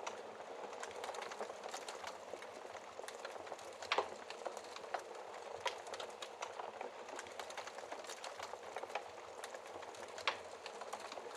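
Wood fire burning in a fireplace: a steady hiss with frequent irregular crackles and sharp pops, the loudest pops about four seconds in and near the end.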